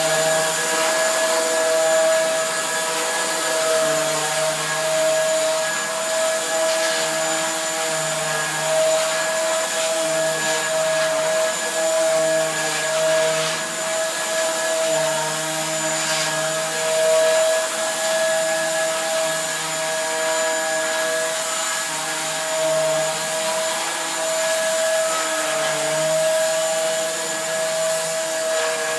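Vacuum cleaner running steadily: a constant motor whine over rushing air, rising and falling slightly in level.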